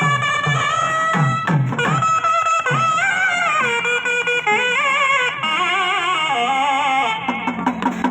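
Nadaswaram playing a folk-song melody with many sliding, ornamented turns, over thavil drum strokes.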